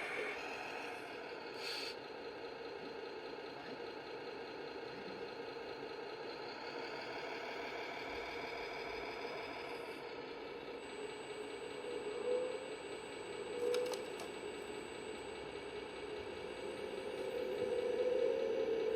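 Radio-controlled scale model tractor or truck running: a steady engine-like hum with a slight rattle, its pitch rising and falling a little, with a couple of brief clicks.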